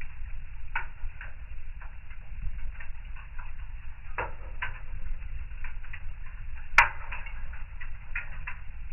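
Fire in a fireplace crackling, with irregular small pops and one sharp, loud pop a little under seven seconds in, over a low steady rumble.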